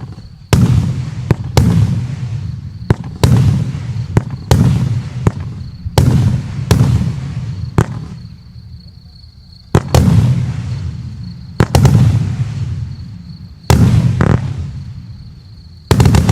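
Joker Fireworks 'Mr Kva' 100-shot fireworks cake, 0.8 to 1.2 inch shells, firing in the air. Sharp bangs come one to two a second, each trailing off over a second or so, with a lull of about two seconds around the middle.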